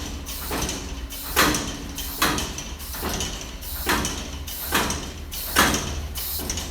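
Steam engine running slowly, each exhaust stroke a sharp hiss of steam at a steady beat of a little more than one per second, over a low steady hum.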